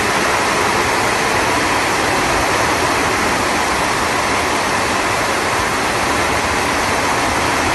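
Heavy downpour and running floodwater: a steady, loud hiss of water.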